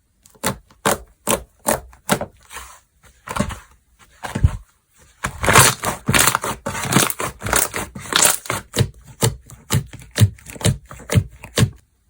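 Slime being pressed and squeezed by hand, giving a run of sharp pops and clicks about two or three a second, then from about five seconds in a denser stretch of squishing with pops about twice a second.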